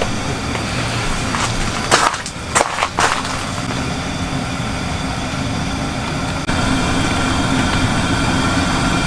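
Steady heavy rain, with a few sharp knocks about two to three seconds in.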